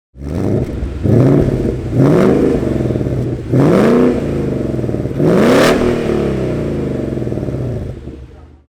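2019 Ford Mustang GT's 5.0 V8 running through its quad exhaust at idle, blipped four times: each rev jumps up quickly and falls back to idle.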